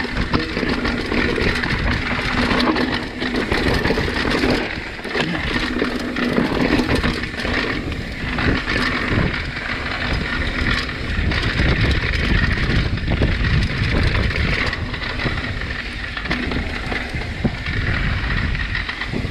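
Mountain bike descending a rough dirt trail: a constant rush of tyre and ride noise with frequent knocks and rattles as the bike clatters over roots and rocks.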